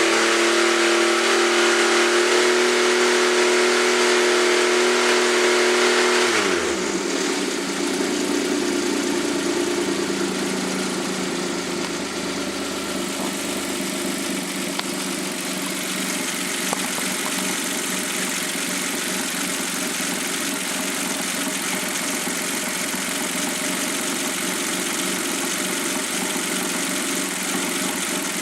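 Suzuki Jimny JB23W's K6A three-cylinder engine held at raised revs, then dropping quickly about six seconds in and settling to a steady idle.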